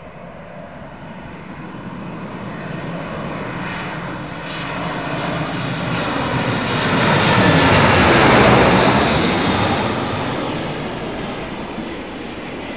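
Jet engines of a Boeing 737-800 (CFM56-7B turbofans) as the airliner passes: the engine noise swells to its loudest about eight seconds in, the pitch bending down as it goes by, then fades away.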